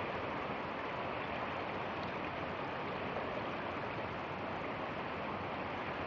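Steady rushing of fast-flowing creek water.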